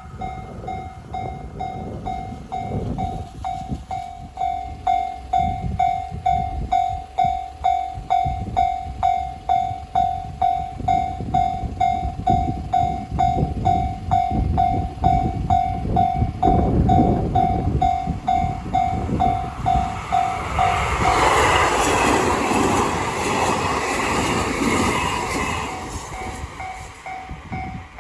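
Level-crossing bell ringing steadily, about two strokes a second, while a train passes; the train's rumble builds in the second half and its loudest stretch briefly drowns out the bell before the bell is heard again near the end.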